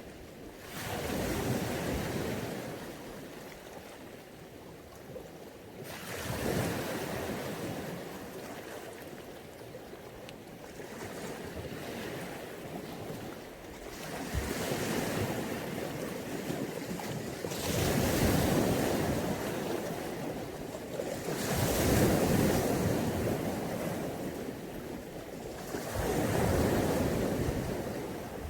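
Sea waves breaking and washing up a beach, the noise swelling and fading in about six surges several seconds apart.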